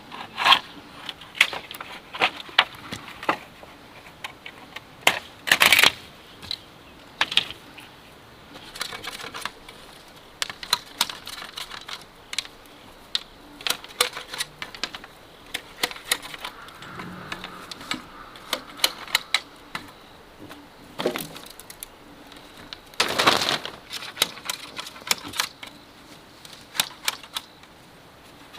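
Irregular clicking and knocking of bamboo being handled and worked into a fence, with a couple of louder knocks a few seconds in and again near the end.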